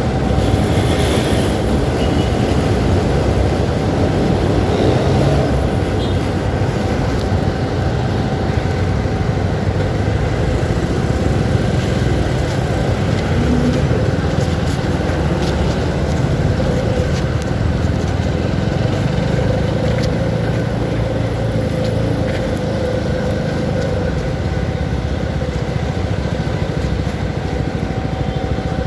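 CFMoto 300SR motorcycle running steadily on the road, its engine under a constant, loud rush of noise.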